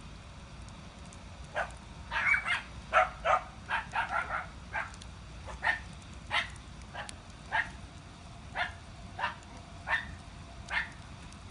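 A dog barking repeatedly in short barks, a quick run of them early on, then spacing out to about one a second.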